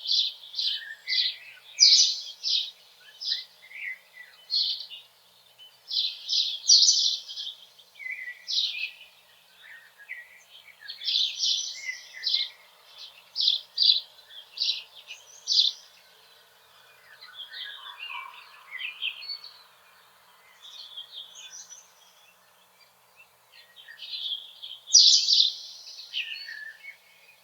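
Small songbirds chirping in quick runs of short, high, clear notes, the phrases broken by brief pauses.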